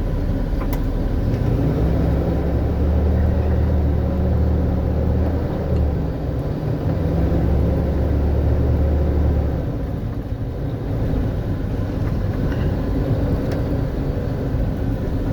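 Vehicle engine and road noise from inside the cab while driving, a steady low rumble. A deeper hum comes in about a second and a half in, breaks briefly near the middle and drops away after about nine and a half seconds.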